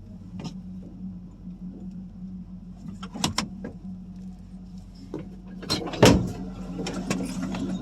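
A 1985 Chevrolet C10's 305 small-block V8 idling steadily, with several sharp knocks and clatters over it. The loudest knock comes about six seconds in.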